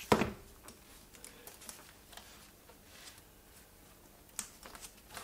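Gloved hands handling the small plastic lamp holders and wires of a licence-plate light harness on a wooden workbench. There is one sharp knock on the bench right at the start, then scattered light clicks and rustles.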